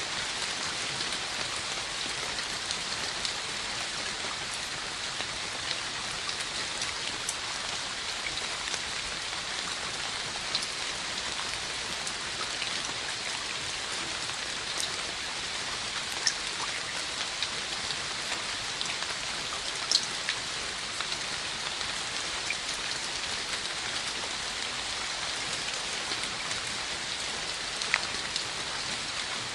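Steady rain falling: a constant even hiss, with a few sharper, louder drops striking close by, notably around 16, 20 and 28 seconds in.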